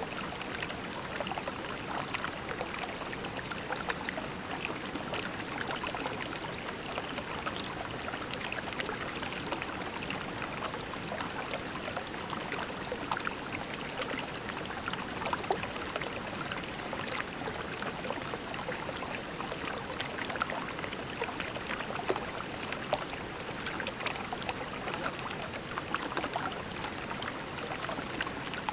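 Creek water flowing over pebbles: a steady babbling with many small splashes and trickles.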